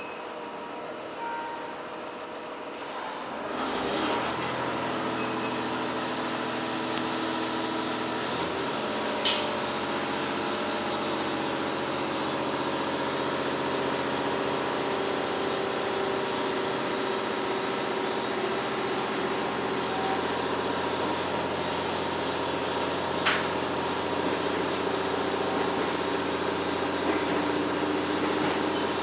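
Inside a JR Hokkaido H100 diesel-electric railcar: after a quieter few seconds, the engine and running gear come up about four seconds in to a steady hum of several tones over rail noise, as the train gets under way. Two sharp clicks come about nine and twenty-three seconds in.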